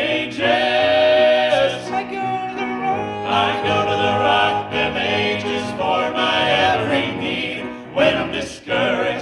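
A vocal group singing a gospel song in harmony, with several voices together on the chorus.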